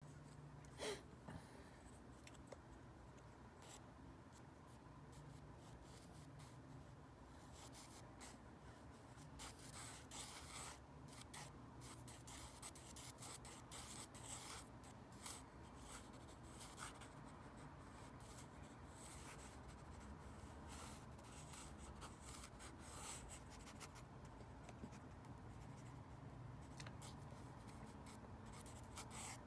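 Pencil drawing on paper: faint, many short strokes in quick irregular succession, over a low steady hum.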